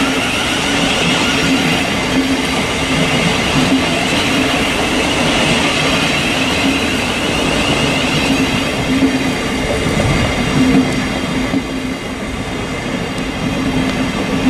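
Thameslink Class 700 electric multiple unit running into the platform: a steady rumble of its carriages rolling over the rails, with a faint pulsing beat about once a second.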